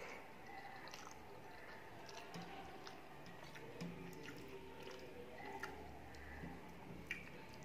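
Close-up mouth chewing of rice and curry, along with fingers mixing rice on a metal plate, with a few short, sharp clicks scattered through.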